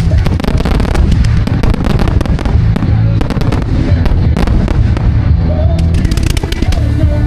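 A fireworks display: rapid, continuous bangs and crackling shells over a heavy low rumble, with music playing underneath.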